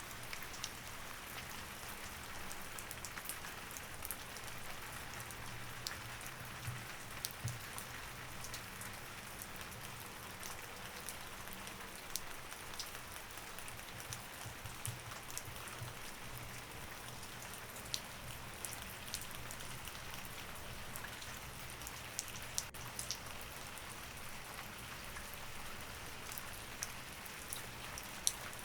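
Steady rain, with a scatter of individual drops ticking sharply on a surface.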